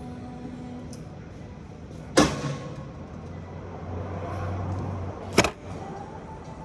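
Two sharp knocks about three seconds apart, the first with a short ringing tail, over a low hum that swells between them.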